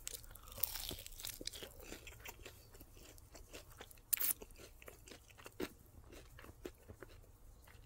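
Close-up chewing of a crispy-coated chicken wing in sweet chipotle barbecue sauce: a run of small, irregular crunches as the coating breaks between the teeth, with one louder crunch about four seconds in.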